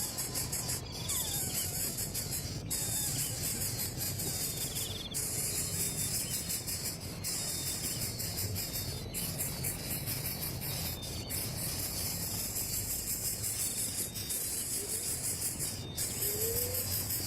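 A high-pitched insect chorus: a shrill, continuous buzz broken by brief drop-outs every second or two. Faint rising whistles come in near the end.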